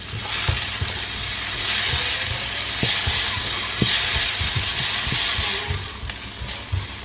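Sliced onion, garlic and red chillies sizzling in hot oil in a nonstick wok, stirred with a silicone spatula that knocks against the pan now and then. This is the aromatics being sautéed as the base of a stir-fry. The sizzle fades near the end.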